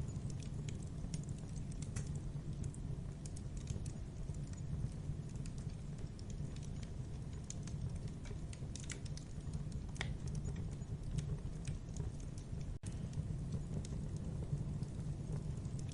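Wood fire burning in a fireplace: irregular snaps and pops over a steady low rumble of the flames. The sound drops out for an instant about three-quarters of the way through.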